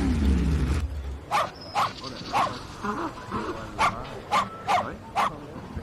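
An engine runs with its pitch repeatedly sweeping down, and stops about a second in. A dog then barks in short sharp yaps, about seven times.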